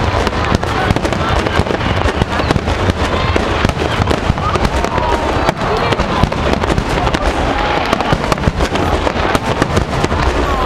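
Aerial fireworks shells bursting in a dense, unbroken barrage, as in a display's finale, with the reports overlapping and a heavy low rumble. A crowd of spectators cheers and shouts through it.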